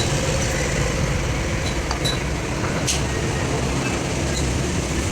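A truck's diesel engine running steadily with a low drone, with a couple of faint metallic clicks.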